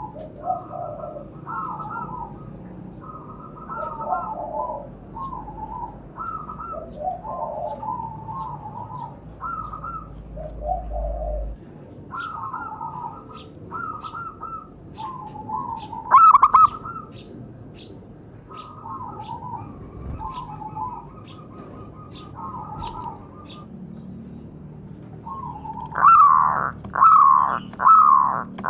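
Zebra doves cooing in repeated short phrases of rolling notes, with a faint high ticking chirp about twice a second in the middle. Near the end a louder run of quick falling coo notes begins.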